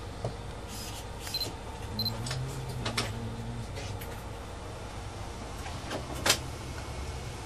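A train running slowly, heard inside the driver's cab: a steady low rumble with scattered clicks and knocks, two short high beeps about a second and a half and two seconds in, and a sharp knock about six seconds in.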